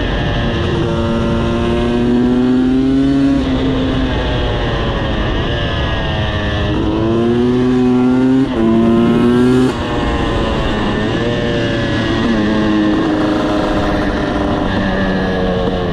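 Husqvarna TE300i's two-stroke single-cylinder engine accelerating hard, its note climbing in pitch and dropping back several times as it shifts up through the gears, with one quick dip in power about eight and a half seconds in.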